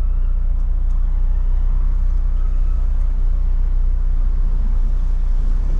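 Car engine running at low speed, a steady low drone heard from inside the cabin as the car creeps forward in traffic.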